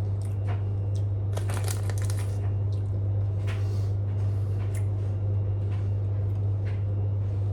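Crunchy pizza crackers being chewed close to the microphone, a scatter of short crunches heaviest about one and a half to two seconds in, over a steady low hum.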